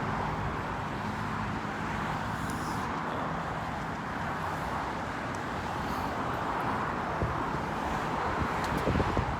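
Steady road traffic noise: an even hiss with a low rumble.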